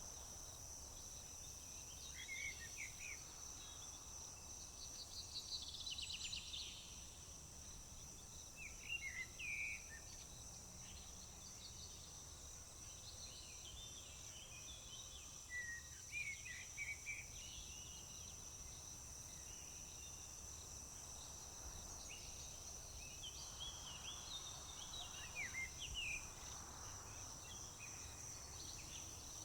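A steady high-pitched chorus of crickets runs through, with short bird chirps and calls scattered over it, including a quick run of notes a few seconds in and a cluster of calls near the end.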